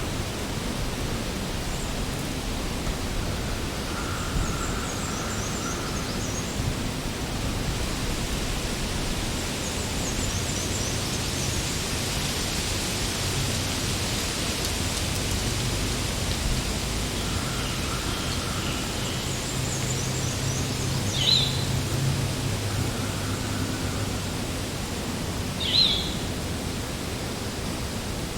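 Spring forest ambience: a steady background hiss with several birds calling over it. High trilled songs repeat every few seconds, and a lower held call comes three times; two short, sharp chirps about three-quarters of the way through are the loudest sounds.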